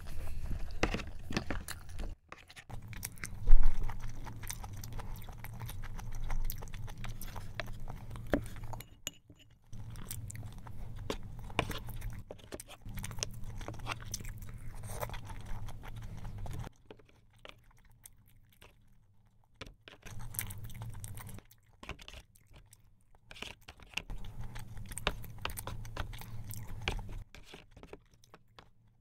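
Close-miked chewing and mouth clicks of a person eating jjimdak, Korean braised chicken with glass noodles. A single loud thump about three and a half seconds in.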